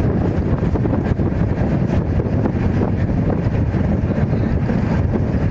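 Steady low rumble of an Indian Railways LHB passenger coach running along the track, with wind buffeting the microphone.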